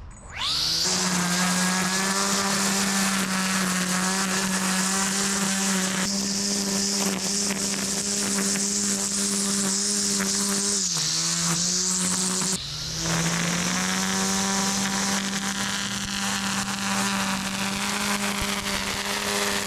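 Electric string trimmer with a head-mounted motor running at a steady whine as it cuts overgrown grass and weeds. It spins up after a short stop about a second in, sags and wavers under load about halfway through, then cuts out briefly and spins back up.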